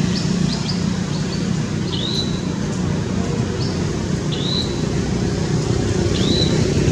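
Short high bird chirps, each a quick upward sweep that levels off, repeating roughly every two seconds with a few fainter ones between, over a steady low hum.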